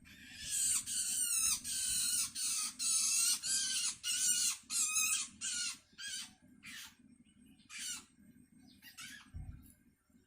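Long-tailed shrike chick giving raspy begging calls, the hunger calls of a chick calling for its parent: a quick run of about three calls a second for the first half, then slower single calls about a second apart. A short low thump comes near the end.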